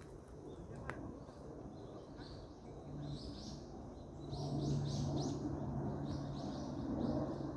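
A forest bird calling in series of short, quickly rising high chirps, thickest from about four seconds in. Under it a steady low hum and a rustling noise that grows louder about four seconds in.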